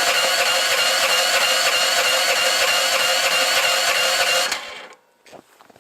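Electric starter motor cranking the Snowdog's small engine in extreme cold: a steady high whine with a fast regular ripple for about four and a half seconds, then it stops without the engine catching. These machines are hard to cold start.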